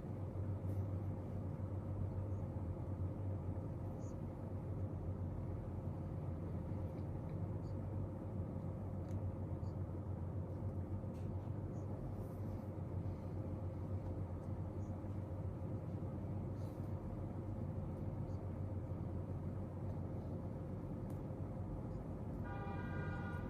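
Steady low hum of room background noise with a faint constant tone, small ticks scattered through it, and a brief high pitched tone about a second before the end.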